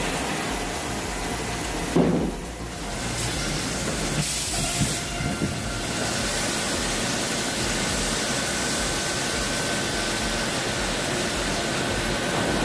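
Heavy wood-processing machinery running steadily with a hissing noise and a faint steady hum, with a brief louder clunk about two seconds in.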